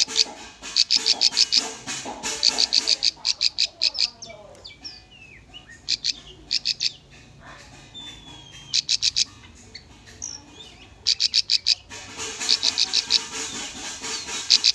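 Bar-winged prinia (ciblek) song: bursts of fast, sharp, high-pitched chips, repeated over and over with short pauses, and fainter whistled notes in between.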